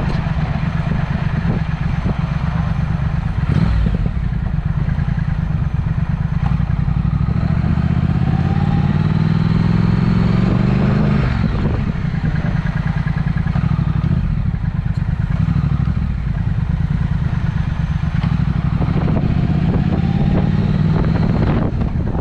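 Triumph Speed Twin's 1200 cc parallel-twin engine running through Vance & Hines aftermarket mufflers while riding, climbing in revs through the middle and easing off just past halfway.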